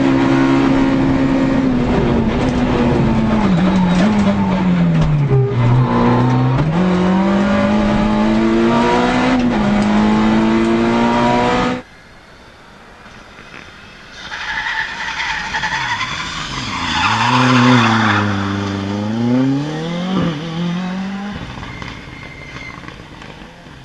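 Rally car engines at full throttle in two successive clips: the first runs loud, with revs dropping and climbing again through gear changes; after an abrupt cut about halfway, a quieter second car revs up and down with a hiss of tyre skid noise over it.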